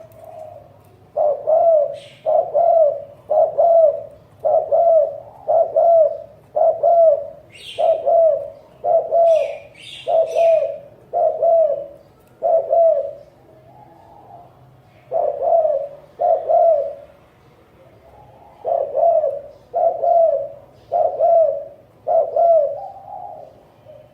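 Spotted dove giving its repeated 'gù' coo: a long run of short, low, even coo notes about two every three seconds, breaking off twice and resuming. A few brief high chirps from another small bird come in among the first run.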